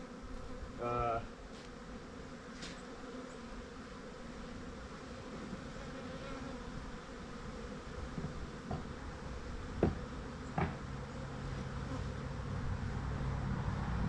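Swarm of honeybees buzzing around the hive in a steady drone, from a defensive colony already flying at the beekeeper. A couple of sharp clicks cut in near the 10-second mark, and a low rumble builds near the end.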